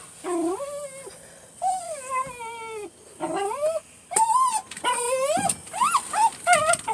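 Dog whining and whimpering in a string of short cries that rise and fall in pitch, worked up over a frog it wants to catch.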